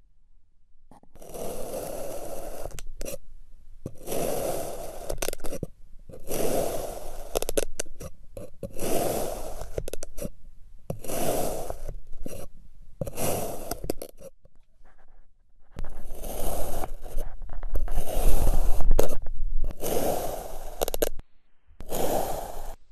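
Repeated scraping strokes, about ten of them, each lasting one to two seconds with short pauses between.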